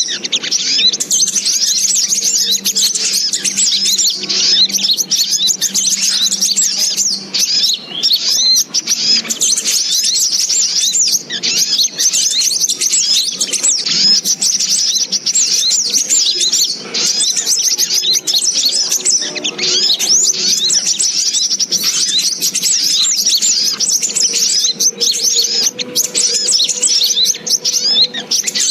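Sogok ontong (little spiderhunter) calls: a dense, continuous stream of rapid, high chirps with no pauses, as used for luring the bird.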